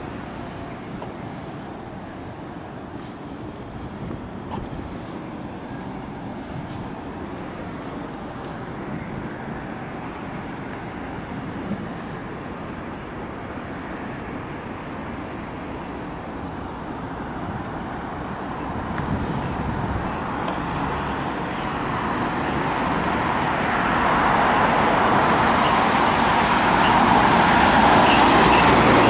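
Road traffic noise at night, with a vehicle approaching and growing steadily louder over the last ten seconds.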